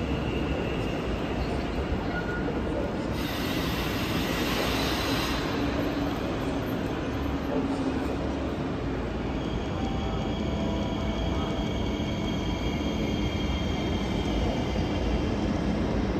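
Double-deck regional train pulling slowly into a terminus platform, with a steady rumble and a burst of hissing about three seconds in. High-pitched squealing joins from about halfway as the train slows to a stop.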